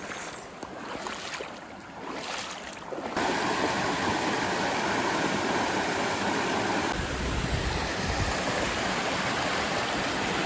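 Wading steps splashing through a shallow river for about three seconds, then an abrupt change to the loud, steady rush of a fast-flowing stream close by, with wind rumbling on the microphone from about seven seconds in.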